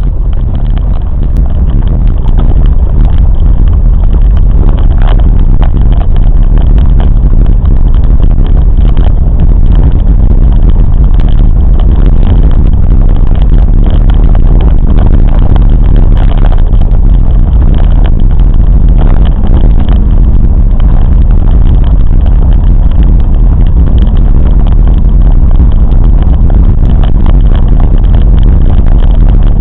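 Train in motion: a loud, steady, low rumble.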